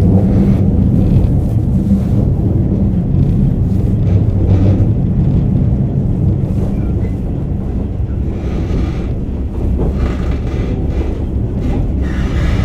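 Inside a KiHa 47 diesel railcar under way: the engine's low drone and the rumble of the running train, muffled as heard from a recorder in a pocket. The engine drone is strong for the first five seconds or so, then eases off.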